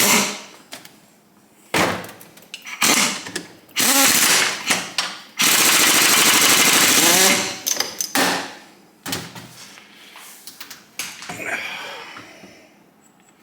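Power tool hammering in several bursts, most likely an impact wrench working a bolt off a Kawasaki KZ1000 engine's alternator rotor. The longest burst runs about two seconds midway, and its pitch rises and falls as the tool spins up and down.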